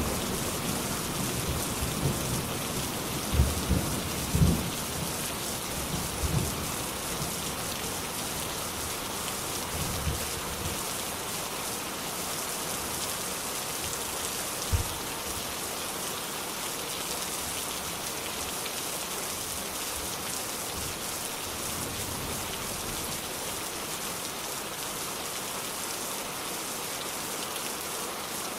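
Steady rain falling on surfaces, an even hiss, with the tail of a thunder rumble dying away over the first several seconds and one more brief low thump about fifteen seconds in.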